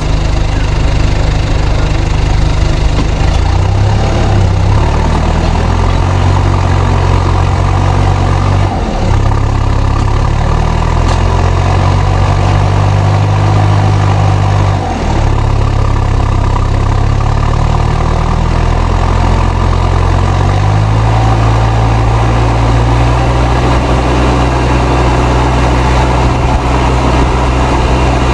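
Fendt 307 Ci tractor's turbocharged engine running under load while pulling a three-furrow plough. Its note shifts up and down several times, with two short dips about 9 and 15 seconds in, and settles lower and steadier for the last seven seconds.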